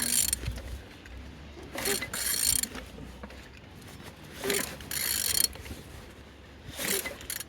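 An A20DTH diesel engine being turned over by hand with a ratchet wrench, in four strokes about two seconds apart, each a burst of clicking and scraping. The engine turns without trouble.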